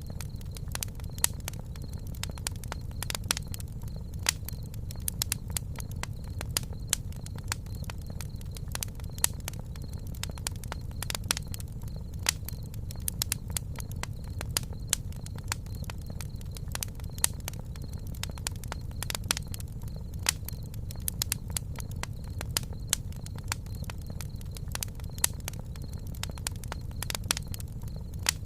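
Campfire burning, with irregular sharp crackles and pops of the wood over a steady low rumble of the flames.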